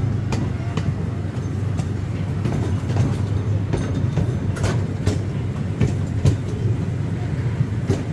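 Miniature amusement-park train rolling along its track, heard from aboard: a steady low rumble with irregular clicks and clacks of the wheels over the rails.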